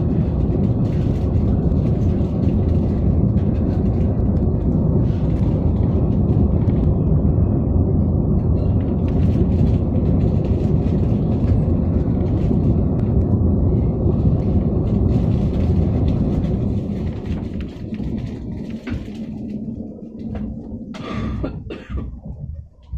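Steady low rumble of a high-speed train running, heard from inside the passenger car. It eases off about three-quarters of the way through, with a few short knocks near the end.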